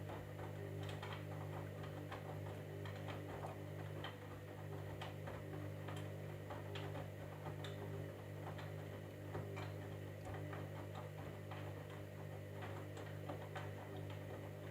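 Candy washing machine running: a steady motor hum with irregular light clicks and ticks, several a second, as the drum turns the load.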